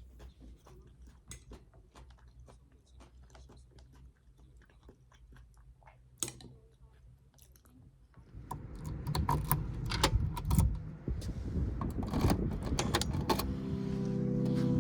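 Soft scattered clicks and small handling noises, turning into louder, busier clattering about eight seconds in; background music comes in near the end.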